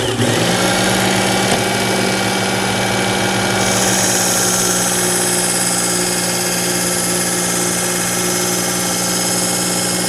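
Work Sharp electric belt knife sharpener running with a steady motor hum; about four seconds in, a high hiss joins it as the kitchen knife's steel grinds on the 120-grit belt.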